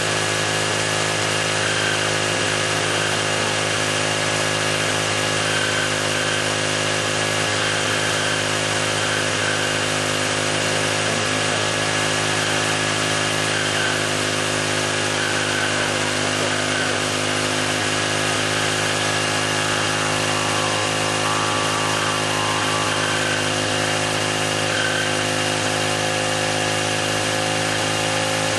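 Kubota brush cutter's small engine running steadily at a constant speed, just revived after being seized; its scored piston and cylinder leave it with little compression.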